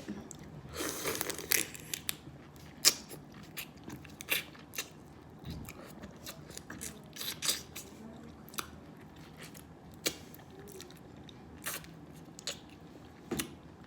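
Steamed blue crab shells being cracked and broken apart, with biting and chewing close to the microphone: irregular sharp cracks and crunches, the loudest a little under three seconds in.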